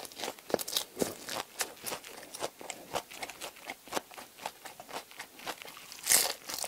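Crispy baguette crust being chewed close to a lapel mic: a run of small crackling crunches, with a louder crunching bite about six seconds in.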